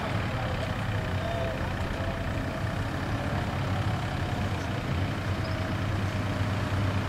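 Nissan GT-R's twin-turbo V6 idling steadily at a standstill, a low even hum.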